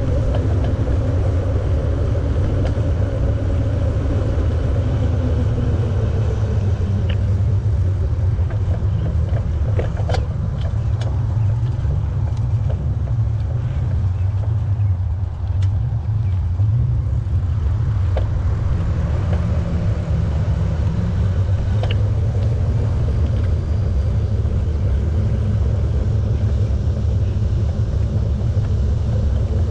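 Steady low rumble of wind buffeting the microphone and bicycle tyres rolling along a paved path while riding, with a few faint ticks.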